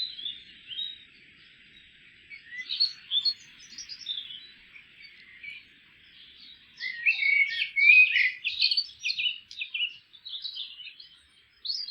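Small songbirds chirping in scattered short calls, then a louder, quick run of song about seven seconds in that lasts a few seconds.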